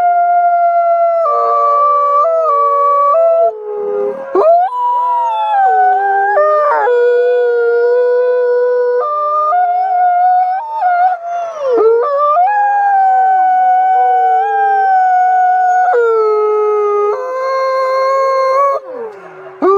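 A pack of wolves howling in chorus, several long howls overlapping at different pitches, some holding steady and some sliding up and down. The howls briefly drop away near the end before a new howl rises.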